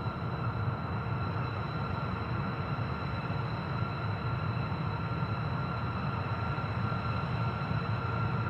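Steady jet aircraft engine noise: a constant low rumble with a high whine held at one pitch throughout.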